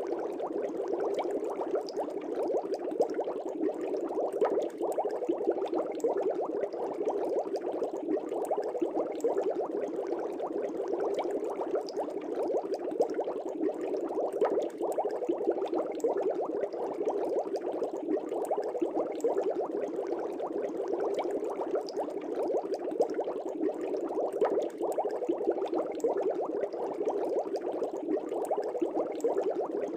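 Aquarium air bubbles streaming steadily up through the tank water: a continuous bubbling made of many small pops, unchanging throughout.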